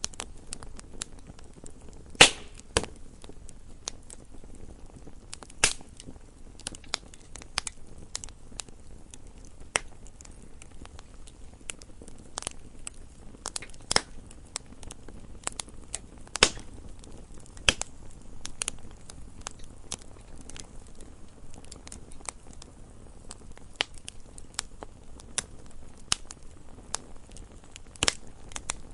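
Wood fire burning in a fireplace: irregular crackles and sharp pops over a low steady hiss, the loudest pops a little over two seconds in and about sixteen seconds in.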